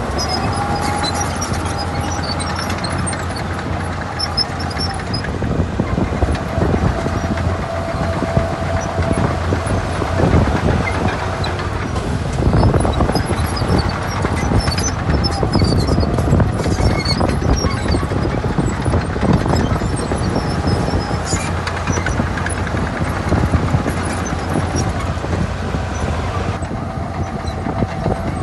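Heavy diesel earthmoving machinery running steadily under load, with a faint whine that comes and goes.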